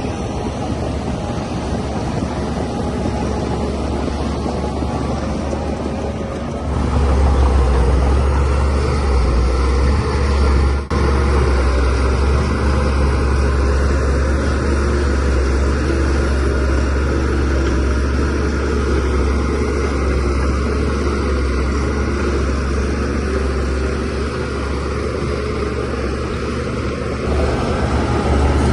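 DH17C3 bulldozer's diesel engine running steadily under load, with a deep low hum. About a quarter of the way in it steps up to a louder, heavier note and holds there.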